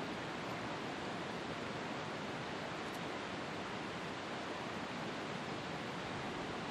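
Steady, even hiss with no change in level or pitch.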